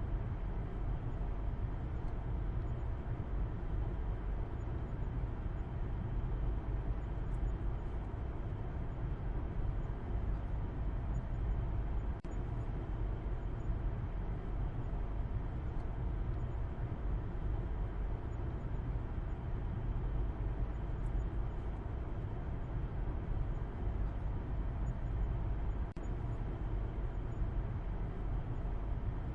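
Steady low rumble of a car driving: engine and tyre road noise, strongest in the deep bass, with no change in pace.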